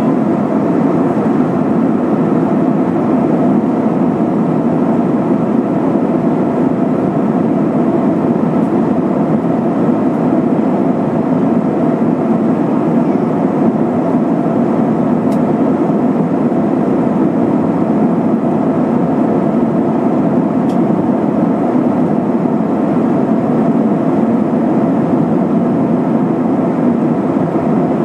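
Steady cabin noise of an Airbus A320-232 in flight: the drone of its IAE V2500 turbofans and the airflow over the fuselage, heard from a passenger seat and holding an even level throughout.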